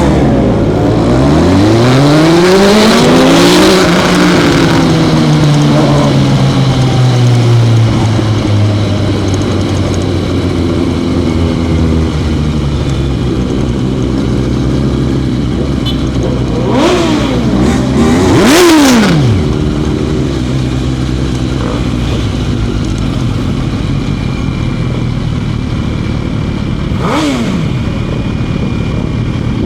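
Motorcycle engines accelerating and slowing. The engine note climbs and falls early on, settles into a steady running note, then rises and drops sharply twice more, about two-thirds of the way through and again near the end.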